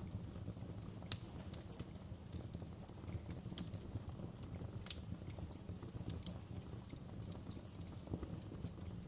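Wood fire crackling: irregular sharp pops and snaps over a steady low rumble of burning, with a louder pop about a second in.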